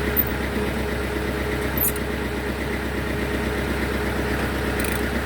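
Sawmill machine's engine running steadily, with an even hum that does not change in pitch or level.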